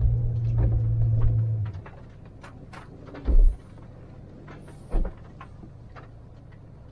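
A low rumbling hum for about the first two seconds, then two dull thumps about a second and a half apart, with scattered small clicks throughout.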